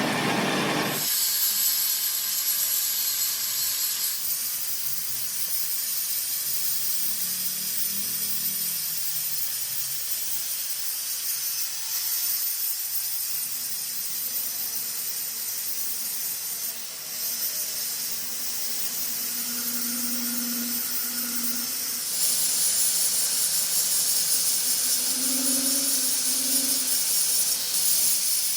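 A steady high-pitched hiss from repair work, changing in strength about a second in and about four seconds in, and growing louder again near the end.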